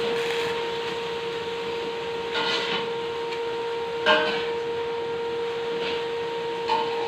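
Three sharp knocks of a hammer on steel pipe, the middle one loudest, each with a brief metallic ring, over a steady electrical hum.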